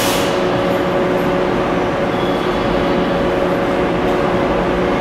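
Stationary 419 series electric train at a platform with its onboard equipment running: a steady hum made of two constant tones over an even background noise.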